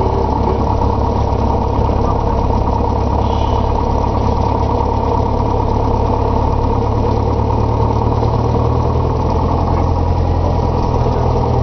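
Single piston engine of a Beechcraft Sundowner light aircraft running steadily, heard from inside the cockpit.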